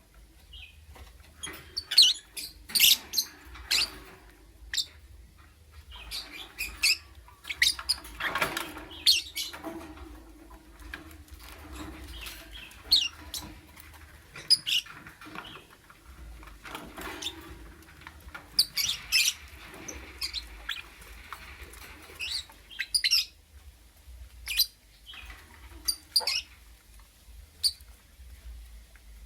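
Lovebird giving short, sharp, high chirps at irregular intervals, with occasional rustling between them.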